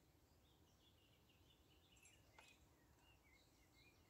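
Near silence with faint, busy bird chirping and twittering, and one faint click about two and a half seconds in.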